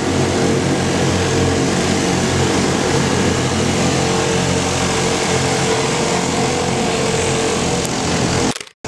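Bumper boat's small engine running steadily at a constant speed, close by. The sound cuts out completely for a moment near the end.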